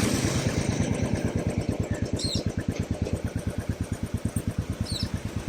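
Royal Enfield motorcycle engine idling with an even, rapid beat. Two faint, short bird chirps come through, about two seconds in and near the end.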